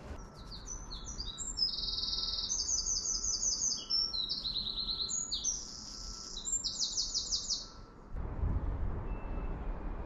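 A songbird singing a fast, varied song of high phrases and rapid trills. It cuts off suddenly about eight seconds in, leaving a low rumble.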